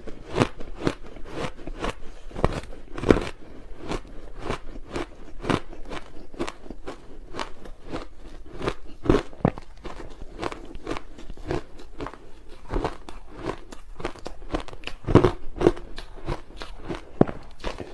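Close-miked crunching of large chunks of ice dusted with matcha powder as they are bitten and chewed: a run of sharp, irregular crunches, about two or three a second, with a few louder cracks.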